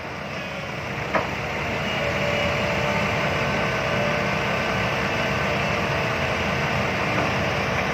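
Diesel dump-truck engine revving up: it grows louder over the first two seconds, then runs steadily at raised revs with a thin whine. A single click sounds about a second in.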